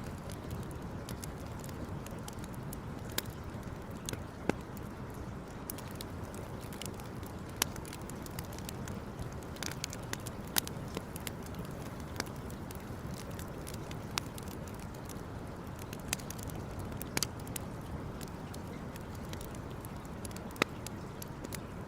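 Wood campfire crackling, with sharp irregular pops over a steady low rushing noise.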